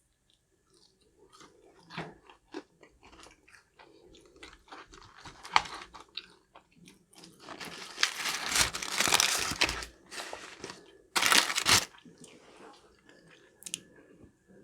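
Close-miked eating of crispy fried food: crunching bites and chewing, with many small crackles and two loud crackly crunching stretches, about eight and eleven seconds in.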